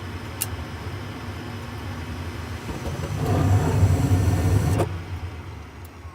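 Gas furnace running its ignition sequence. The draft inducer hums steadily, then the burners light about three seconds in with a louder rumble that cuts off abruptly less than two seconds later as the flame drops out. The technician suspects the flame sensor is not in the flame.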